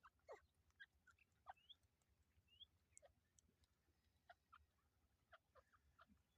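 Faint, scattered soft chirps and clicks from partridges (teetar), with a couple of short rising notes, all very quiet.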